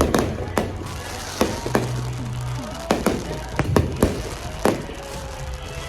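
Fireworks going off in a series of sharp bangs, about eight over a few seconds, some close together, over background music.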